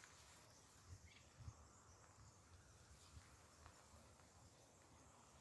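Near silence: faint outdoor ambience, with a couple of soft low bumps about a second and a half in.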